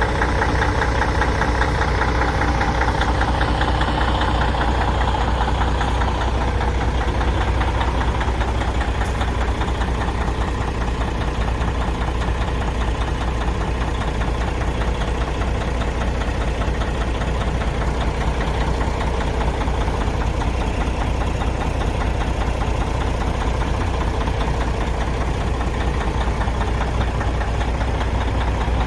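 Kenworth truck's Caterpillar 5EK E-model (3406E) diesel idling steadily shortly after a cold start in freezing weather, with a dense even clatter over a deep hum. Some higher-pitched tones in the first several seconds fade away.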